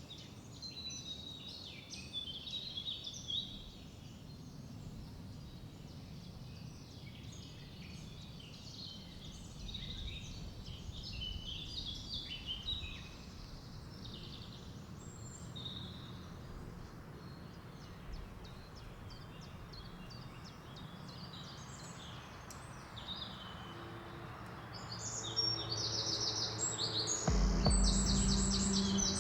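Small birds chirping and singing over a low, even background rumble. Near the end a louder, steady low-pitched sound comes in over the birdsong.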